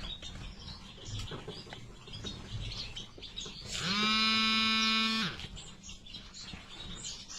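Small cage birds chirping faintly. About halfway through, a single loud, steady, held tone lasting about a second and a half cuts in and stops.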